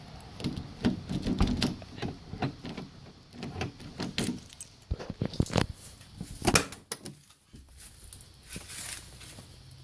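Handling clatter at a pickup truck's door and cab: irregular clicks, taps and knocks, the loudest about six and a half seconds in. The engine is not running yet.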